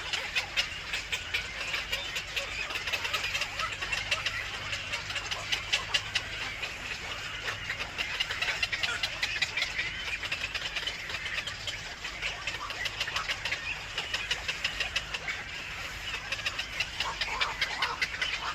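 Small birds chirping rapidly and continuously in a dense, high-pitched stream, over a steady low hum.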